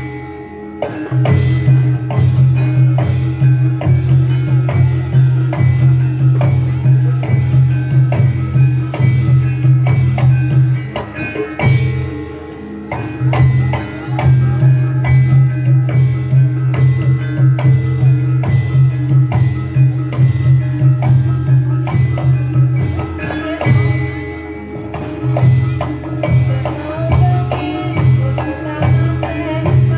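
Javanese folk percussion ensemble playing live reog/jaranan accompaniment: drums and tuned gongs and metallophones in a steady, driving rhythm, with short breaks about 11 and 23 seconds in.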